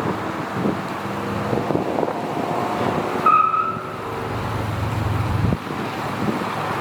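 Wind buffeting the microphone over idling vehicle engines, with a short high-pitched tone about three seconds in. A low rumble stops abruptly a little before the end.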